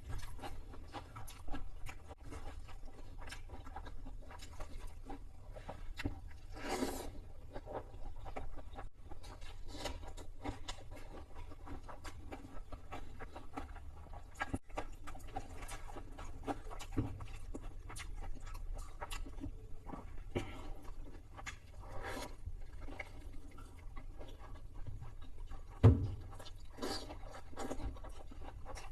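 A person eating fried chicken close to the microphone: irregular chewing, crunching and handling clicks, with one loud thump near the end.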